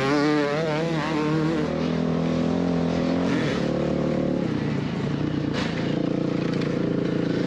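Motocross dirt bike engine under riding throttle. Its pitch wavers rapidly up and down for the first couple of seconds, then holds steadier and drops about three and a half seconds in.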